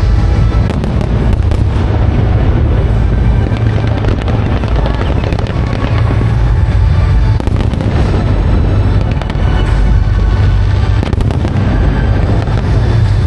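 Aerial fireworks display going off without pause: dense crackling bursts over a steady low booming, with music playing underneath.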